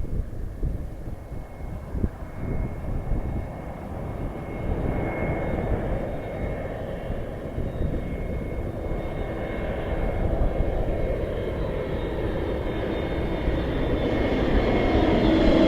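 Airplane engine noise growing steadily louder as the plane approaches, a broad rushing sound with a thin steady whine running through it.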